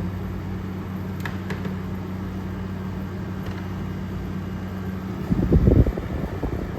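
A General Electric 5,000 BTU window air conditioner running with its compressor on: a steady low hum over the fan's airflow. About five seconds in the hum drops out and a brief, louder low rumble follows.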